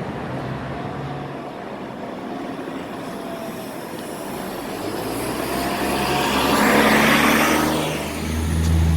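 Street traffic: a steady low engine rumble, with a vehicle passing that swells to its loudest about seven seconds in and fades, then a heavier engine rumbling close by near the end.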